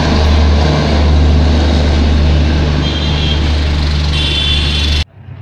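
Loud, steady low rumble of a train passing a road level crossing, mixed with waiting road traffic. Brief high tones sound about three seconds in and again about four seconds in. The sound cuts off abruptly about five seconds in.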